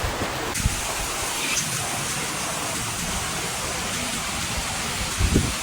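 Steady rushing water noise, with a few dull knocks near the end.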